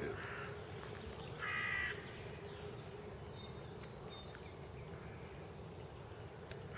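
A crow cawing: one harsh caw about a second and a half in and another near the end, over faint chirps of small birds and low outdoor background noise.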